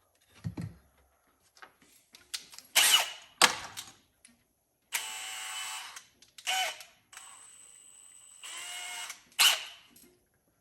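Power drill running in several short runs with pauses between, its motor whining as it works into soft wood.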